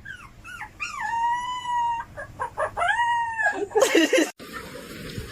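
A dog howling: a few short rising yelps, then two long, drawn-out howls. The howls break off about four seconds in.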